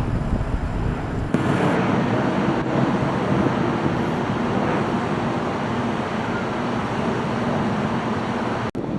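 Steady roar of airliner jet engines, heard at length as a departing jet climbs away. The noise drops out briefly near the end.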